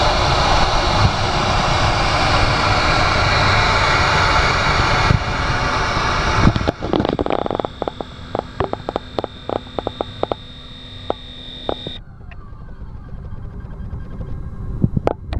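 Wood CNC router running, its spindle cutting wood with a loud steady noise that stops suddenly about seven seconds in. It is followed by a quieter steady high whine with many sharp clicks.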